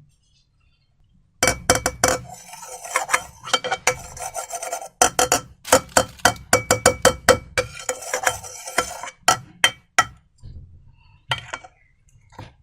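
Slime being stirred and worked in a bowl: a dense run of sticky clicks, pops and clinks starting about a second and a half in, thinning to a few single clicks after about ten seconds.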